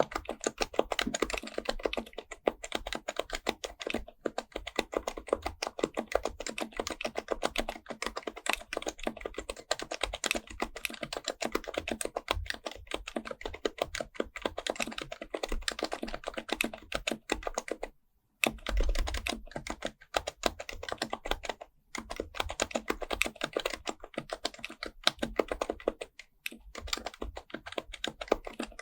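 HHKB Pro Type-S keyboard with Topre electrostatic capacitive switches being typed on continuously: a fast, dense run of soft keystrokes, broken by brief pauses about two-thirds of the way through.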